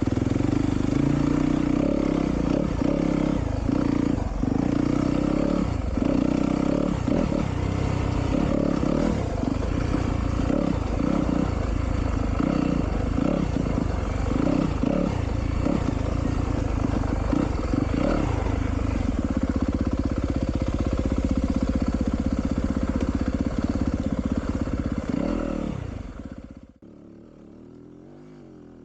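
Yamaha YZ250FX 250 cc single-cylinder four-stroke engine running at low, steady revs, lugging gently in a low gear, with many short knocks and clatter from the bike over rough ground. Near the end the engine sound drops away suddenly, leaving only a faint background.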